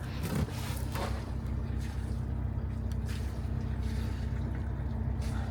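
A boat's inboard engine idling steadily: a low, even hum with a few stacked low tones, warming up before an oil change.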